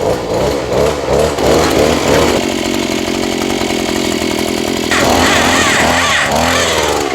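Small gasoline engine running steadily.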